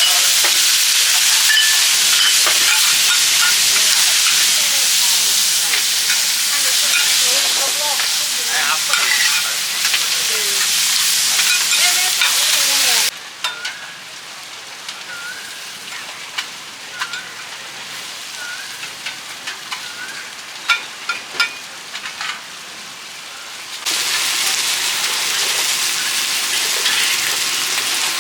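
Food frying in hot oil in a pan, sizzling loudly, with scrapes and clinks of the cooking utensils. About halfway through the sizzle cuts off abruptly to a quieter stretch of scattered clinks and taps for about ten seconds, then the loud sizzle comes back.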